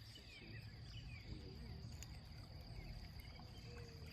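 Faint outdoor dawn ambience: a steady high insect trill, short bird chirps now and then, and a low rumble underneath. A single faint click comes about two seconds in.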